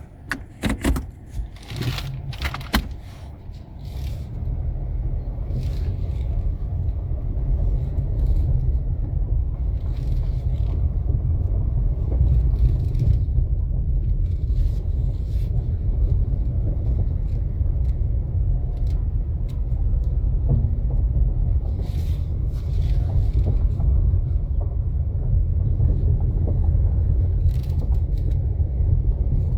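A 2024 Nissan Sentra being driven: several sharp knocks and clicks in the first few seconds, then a steady low rumble with a few faint clicks.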